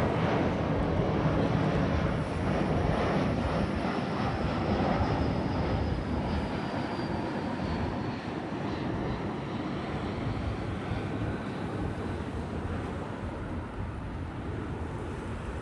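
Jet engines of an arriving Airbus A321-231 airliner passing by, a dense roar that slowly fades, with a high whine falling in pitch through the first half.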